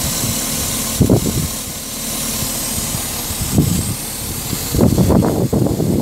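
Holden Commodore's 6.0-litre L98 V8 idling steadily. Low rumbles of wind or handling noise on the microphone come about a second in and again later, clustering near the end as the camera moves.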